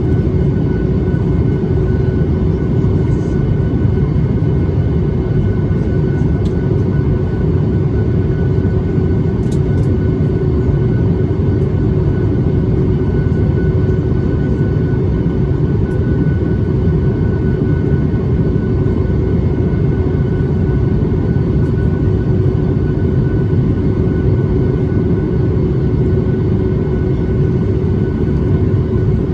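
Boeing 737 MAX 8 cabin in flight: the steady roar of the CFM LEAP-1B engines and airflow, heard from an over-wing seat, with a steady hum and a fainter high whine running through it.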